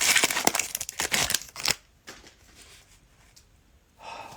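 Cellophane wrapper of a trading-card cello pack crinkling and tearing as it is handled and opened, dense and crackly for about two seconds, then it stops. A brief soft rustle follows near the end.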